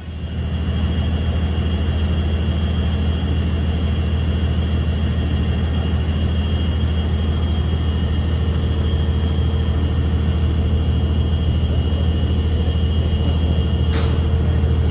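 DD200 diesel-electric locomotive's engine running steadily, a loud low drone with a faint high whine over it. A single click sounds near the end.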